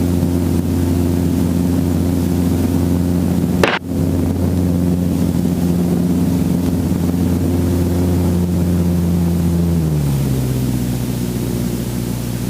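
Robinson R44 helicopter's piston engine and rotor running steadily while it sits at a hover or on the ground, with a brief break in the sound about four seconds in. Near the end the pitch drops and holds lower as the engine and rotor speed come down.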